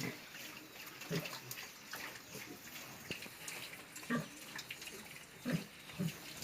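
Domestic pigs grunting in short, separate calls, several scattered through, over a faint noisy background.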